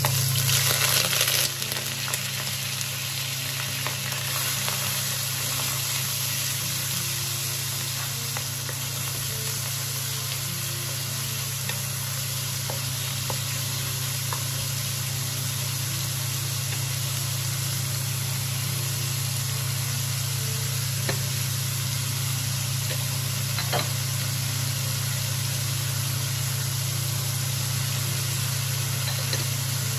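Diced pork sizzling in hot oil in a nonstick wok, loudest in the first second or two as the meat lands in the oil, then frying steadily as a wooden spatula stirs it, with a few light knocks of the spatula. A steady low hum runs underneath.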